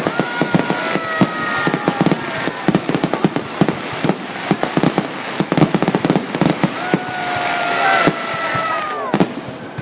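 Fireworks going off in rapid succession, a dense run of sharp bangs and crackles. Shrill whistles are held over them for a couple of seconds near the start and again from about seven seconds in, the second dropping away near the end.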